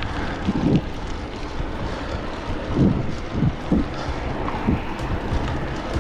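Wind rushing over the microphone of a bike-mounted camera while cycling, with a few low thumps.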